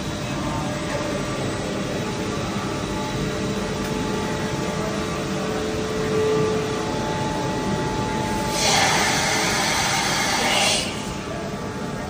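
Running CNC machining centre: a steady machine hum with faint steady whining tones. A hiss breaks in for about two seconds near the end, then stops suddenly.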